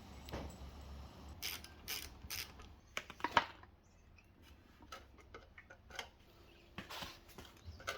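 Irregular clicks and knocks of parts and tools being handled during minibike disassembly, loudest about three seconds in.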